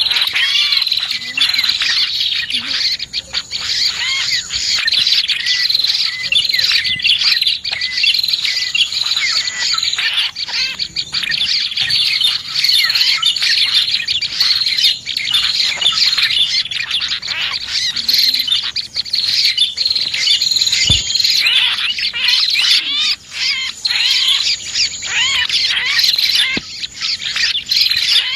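Prenjak (prinia) lure call mixed with other small birds, a dense, unbroken run of high-pitched chirps and twitters, used to attract prenjak and small birds.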